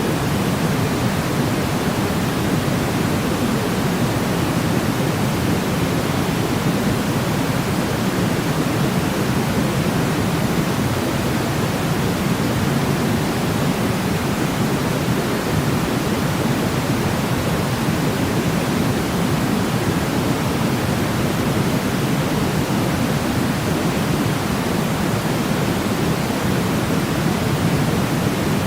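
Steady sleep noise: an even, unchanging rushing hiss, deeper than pure white noise, with most of its weight in the low-middle range.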